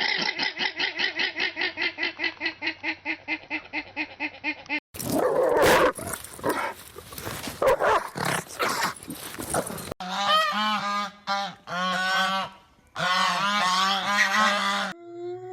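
Animal calls from three clips cut one after another. First comes a fast run of evenly spaced pitched pulses, about six a second, for roughly five seconds. Then a rougher, noisy stretch, then a string of repeated honking calls.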